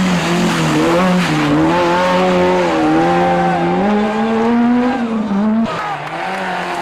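Rally car engine running hard, its pitch wavering with the throttle and then climbing steadily as it accelerates. Near the end it cuts off suddenly to a quieter, lower engine sound.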